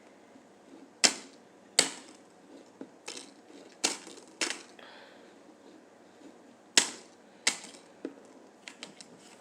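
About ten sharp clicks and taps at irregular intervals, from objects being handled and set down on a tabletop. There is a brief soft rustle about halfway through.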